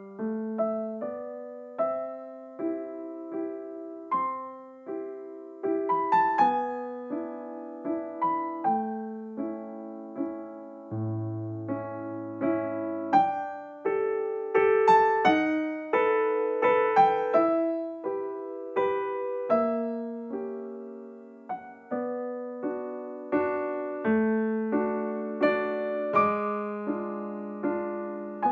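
Background piano music: a gentle melody of struck notes over a simple accompaniment.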